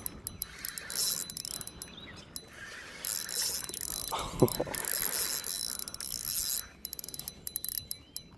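Fishing reel being cranked in stretches with a whirring, ratcheting sound while a big fish is played in, ending in a run of rapid clicks.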